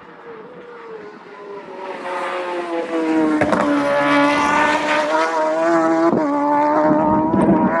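Racing motorcycle engine at high revs, getting much louder over the first few seconds as it approaches, then holding a loud, fairly steady note with two brief breaks, each followed by a small change in pitch.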